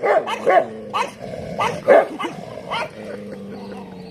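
Street dogs barking during a fight: about six short, sharp barks in the first three seconds, then a steady low growl near the end.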